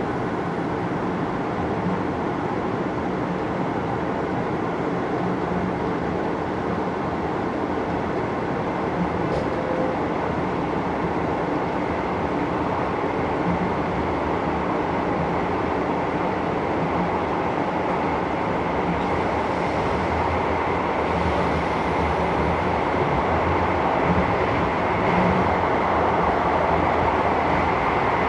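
Cabin running noise of a JR Hokkaido 733 series electric train, pulling away past the end of a station platform onto elevated track: a steady rumble and rail noise that grows a little louder near the end.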